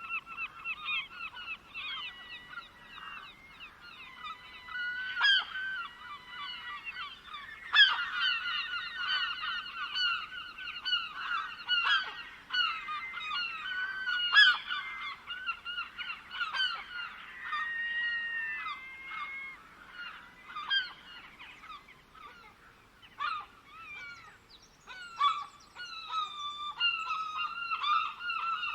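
A flock of birds calling over one another in a dense, continuous chorus of short pitched calls. It thins out for a few seconds past the middle, then picks up again with quick short calls near the end.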